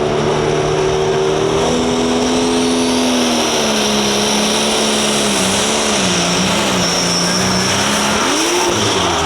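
A light limited pro stock pulling tractor's diesel engine running hard under load on a pull, with a high whine above the engine tone. The engine pitch holds steady for about three seconds, wavers from about four seconds in, and dips and climbs again near the end.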